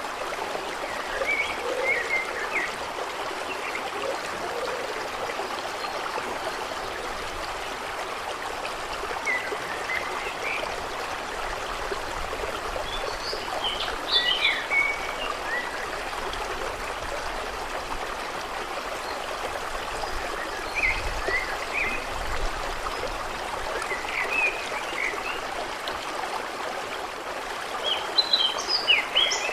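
Steady running water, a constant trickling wash, with birds giving short chirps in scattered clusters every few seconds; the chirping is loudest near the end.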